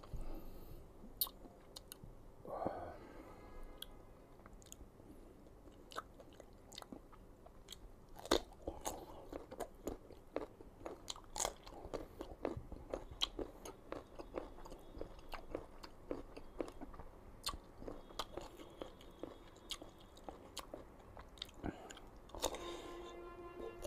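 Close-miked chewing and crunching of crisp raw green mango: a steady run of sharp crunchy bites and wet chewing clicks.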